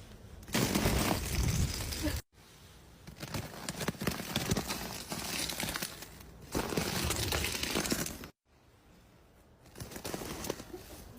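Bursts of crunching, crackling noise, broken by two abrupt dropouts to silence, about two seconds and eight seconds in.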